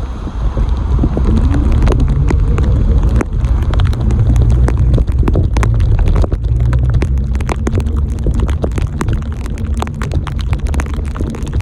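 Wind buffeting the microphone during a bicycle ride, a heavy low rumble that comes up about half a second in. It is peppered with many sharp clicks and rattles.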